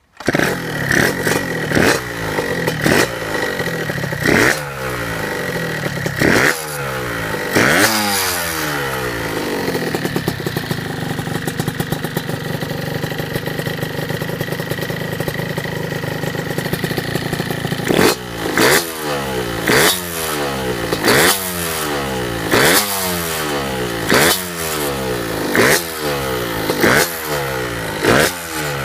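Yamaha YSR50 minibike fitted with an RD/DT80LC II 80cc liquid-cooled two-stroke single, blipped repeatedly: each quick rise in revs falls straight back to idle. It idles steadily for about ten seconds in the middle, then the blips resume about every second and a half.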